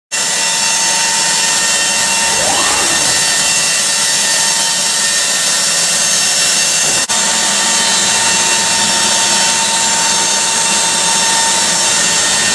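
Abrasive grinding machine dressing a weld seam on a metal washing machine housing: a loud steady grinding noise that starts abruptly, with a brief dip about seven seconds in.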